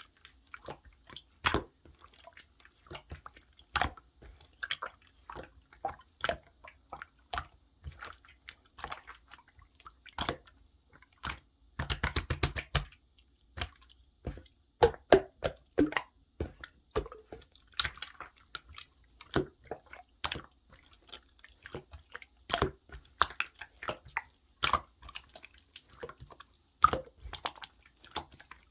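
Clear slime being squeezed and worked by hand, making sharp, wet clicks and squelches at an irregular pace, with a rapid run of clicks about twelve seconds in.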